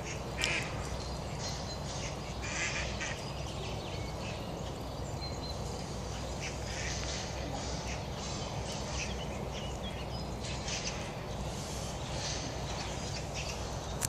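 Short, quack-like bird calls and small high clicks, with a louder burst about half a second in and another near three seconds, over a steady low rumble.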